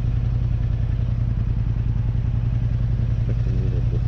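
Motorcycle engine running steadily while riding, a constant low drone that holds at one level. A brief wavering tone comes in near the end.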